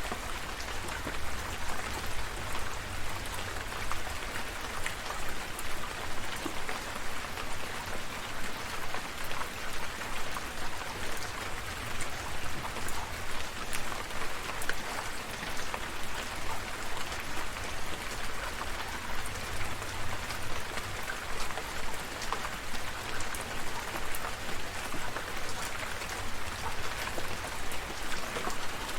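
Steady rain falling, with many individual drops ticking over an even hiss.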